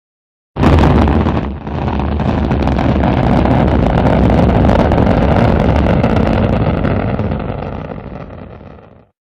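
Rocket engines firing at launch: a loud, deep noise that starts suddenly, dips briefly about a second later, then holds steady and fades away near the end.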